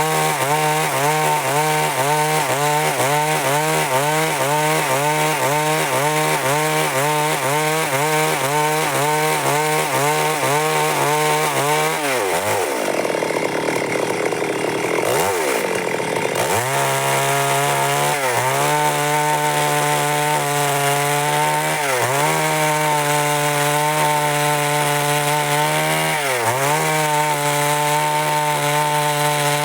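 Stihl MS 382 two-stroke chainsaw running at high revs while cutting through wood, its engine pitch dipping in quick pulses about twice a second as the chain takes load. About twelve seconds in, the revs drop sharply for a few seconds, then climb back and hold steady with a few short dips as the cut goes on.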